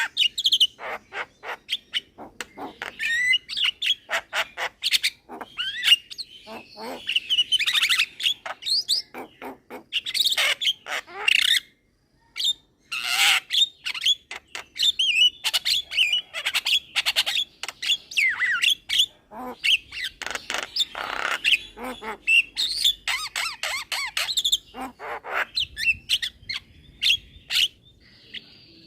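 Young Javan myna singing continuously: a rapid jumble of chirps, squawky notes and whistles, with a brief pause about twelve seconds in.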